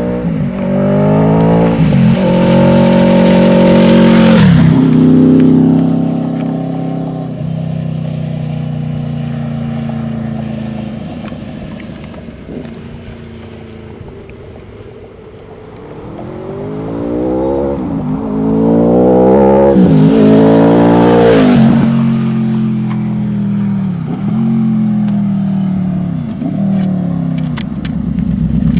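Yamaha V-Max V4 motorcycle accelerating hard through the gears, its engine note climbing and dropping back at each shift before passing close at about four seconds. The sound fades, then a second run through the gears builds from about sixteen seconds and passes close again near twenty-one seconds, settling to a lower steady drone near the end.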